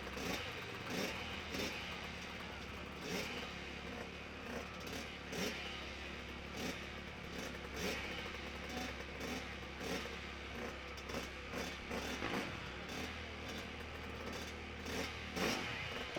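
Motorcycle engine revving up and down in short, repeated blips, over a steady low hum.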